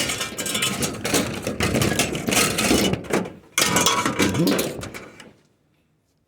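Loud rustling and clattering of scrap being handled for loading, cutting off abruptly about five seconds in.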